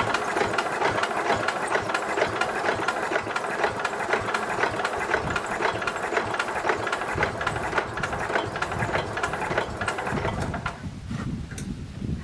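10 hp Briggs & Stratton engine on a 1970 Simplicity garden tractor being cranked by its starter, a fast, uneven mechanical chugging that stops about ten and a half seconds in. The battery driving the starter is slowly dying.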